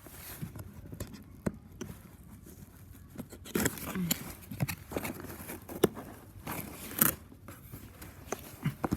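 Cardboard box and packaging being handled and opened by hand: a run of clicks, scrapes and rustles, busiest from a few seconds in, with sharp snaps now and then.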